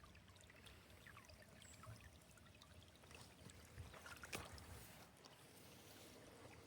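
Faint trickling of a small woodland stream, with scattered light drips and a single sharper tick about four seconds in.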